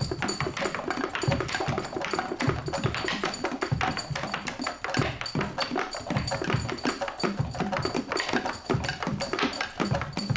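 Instrumental rock from a drums, bass and two-guitar band, with busy, fast drumming running through it.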